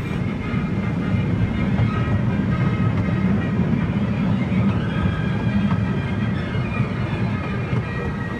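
Casey Jr. Circus Train running steadily along its track: a continuous low rumble of the wheels on the rails, with faint high tones above it.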